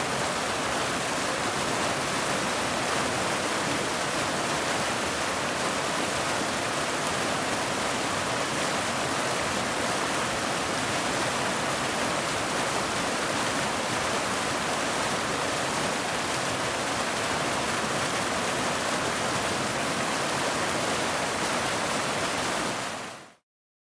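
Steady rain, an even hiss with no beat or pattern, that fades out quickly to silence near the end.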